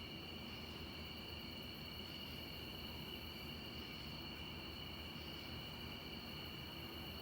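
Insect chorus, a steady high-pitched sound with no breaks, over faint background hiss.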